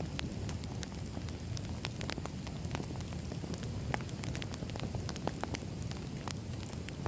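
Wood fire crackling: a steady low rumble of burning logs with frequent, irregular sharp snaps and pops.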